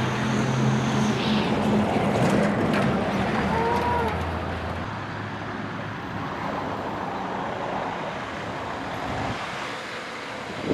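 Road traffic noise with a motor vehicle engine running close by, which eases off about four seconds in; a few short clicks sound early on top.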